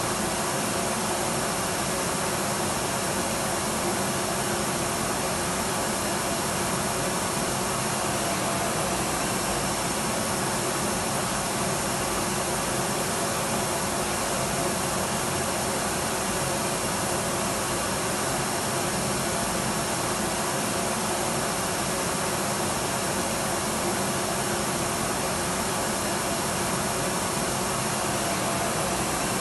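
Electric vacuum cleaner running steadily: an even, unchanging rushing hiss with a faint steady hum in it, used as white noise.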